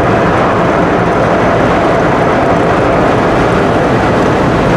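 Pickup truck on the move: steady road and engine noise.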